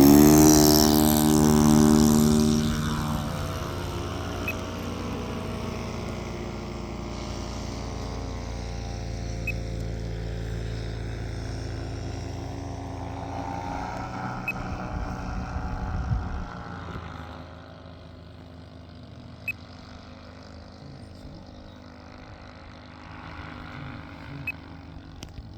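Fuel-burning engine of an RC model Cessna 182 running with its propeller. It is loud at first with the pitch dropping over the first few seconds, then settles into a steadier, fainter drone that grows fainter still after about 17 seconds.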